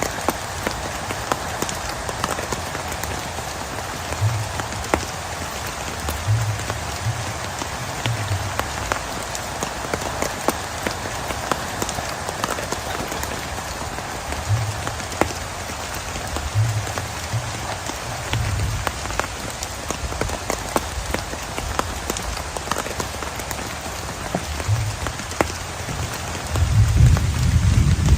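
Heavy rain falling steadily, with many separate drops ticking and an occasional short low thud. A louder low rumble swells near the end.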